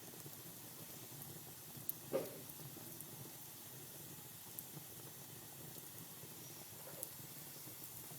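Wood fire burning in a fireplace: a soft steady hiss with scattered crackles, the loudest a sharp pop about two seconds in.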